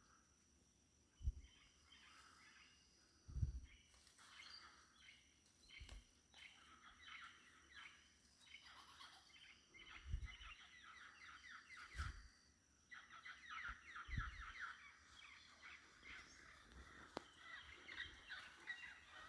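Tropical forest dawn chorus, faint: many birds calling at once in fast chattering, trilling runs of short notes, echoing. Several brief low thumps are spread through it.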